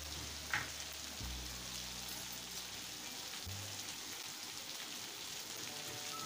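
Chili spice paste and beef frying in a wide aluminium wok, a steady sizzling hiss. A single sharp click comes about half a second in, and a low hum stops about three and a half seconds in.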